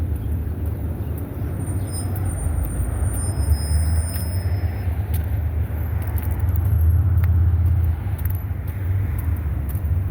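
Road traffic: a steady low rumble of passing cars and trucks. There are brief high-pitched squeals in the first half, and the sound swells as a vehicle passes near the end.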